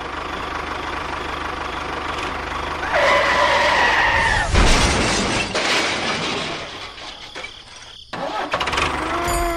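A small engine running steadily. About three seconds in, a pitched whine sounds for about a second and a half, followed by a loud clatter.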